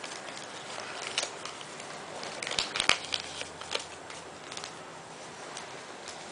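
A sheet of paper being folded and creased by hand: irregular crinkles and rustles, busiest about two and a half to three seconds in.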